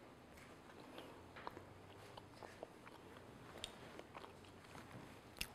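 Faint, scattered crunches of crisp brown-sugar shortbread being bitten and chewed, with one sharper click near the end.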